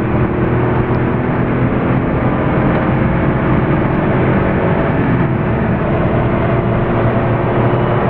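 Porsche 993 Carrera 4's air-cooled flat-six engine pulling at fairly steady revs, heard from inside the cabin at track speed, mixed with tyre and wind noise. The car has a slightly more open exhaust.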